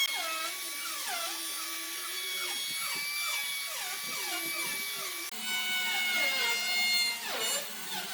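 A high-speed electric power tool working wood, its whine dipping sharply in pitch over and over, about twice a second, as it bites into the wood under load.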